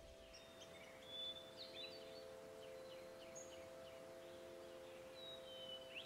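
Songbirds chirping faintly, with short high whistles and quick chirps scattered through, over a steady low drone.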